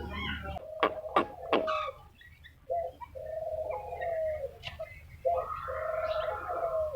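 Three sharp clicks, then a bird calling in two long, even notes, each lasting about a second and a half.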